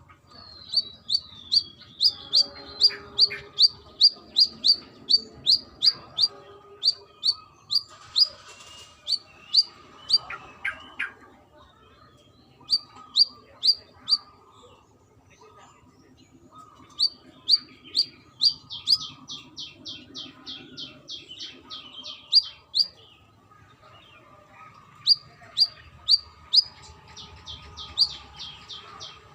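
Brown-throated sunbird calling: sharp, high chips repeated two or three a second in runs, broken by a couple of short pauses, with a quicker string of notes past the middle.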